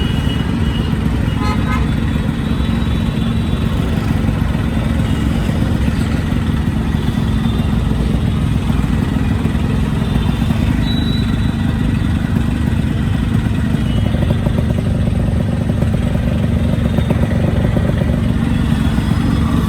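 Yamaha RX-series two-stroke single-cylinder motorcycle engine running steadily at an even speed.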